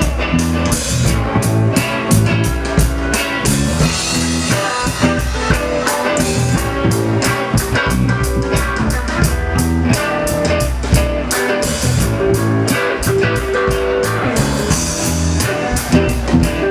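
Live band playing an instrumental passage between sung verses: guitar over bass and drum kit, with a steady beat.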